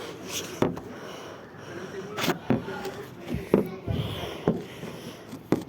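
Faint children's voices in the background, broken by scattered short knocks and clicks.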